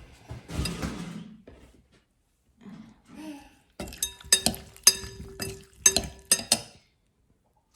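Spoon clinking against a bowl while a salad is being mixed: about ten sharp ringing knocks over roughly three seconds in the second half.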